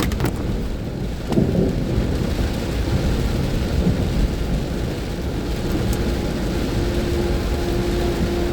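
Heavy rain with a deep rumble, a few sharp clicks in the first second and a half. A steady musical tone comes in about seven seconds in.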